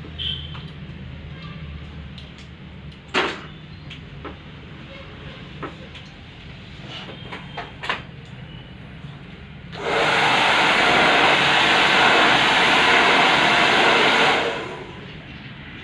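Handheld blow dryer switched on about ten seconds in, running steadily and loudly for about four and a half seconds, then switched off and winding down. Before it, a low hum with a few scattered small clicks and taps.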